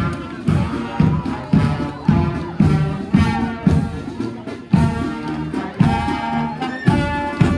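Marching band playing, brass over a steady drum beat of about two beats a second.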